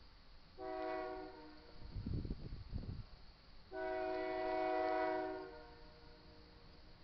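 Diesel locomotive air horn sounding two blasts of a steady multi-note chord, a short one and then a longer, louder one, with a low rumble between them.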